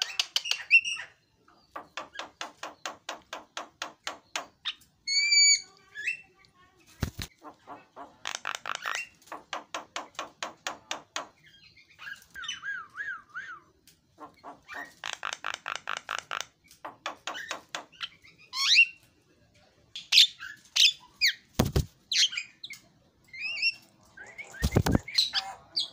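Javan myna singing: a varied song of long, rapid rattling runs, about six pulses a second, alternating with high whistles and squeaky chirps. Three sharp knocks break in, one about a quarter of the way through and two near the end.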